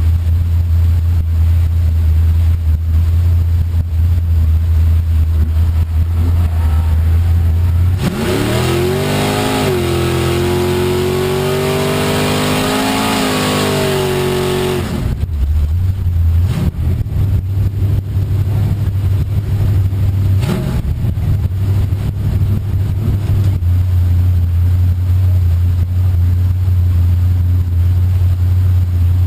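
Chevy Nova drag car's engine heard from inside the car: a deep, loud rumble, then about eight seconds in it revs hard, climbing in pitch and holding high for about seven seconds. It then drops back to a rumble, with a couple of short throttle blips.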